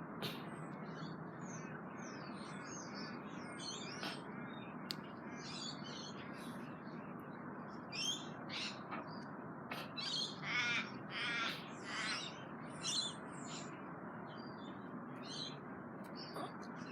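Crows cawing, a run of short harsh calls clustered between about eight and thirteen seconds in, over a steady low background hum.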